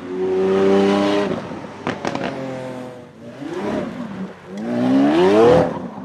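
Lamborghini Centenario Roadster's V12 engine being revved. It holds a high note, then pops and crackles around two seconds in, gives a short blip, and ends with a sharp rising rev.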